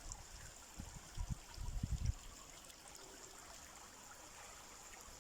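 Shallow rocky creek trickling faintly and steadily, with a cluster of low thumps between about one and two seconds in.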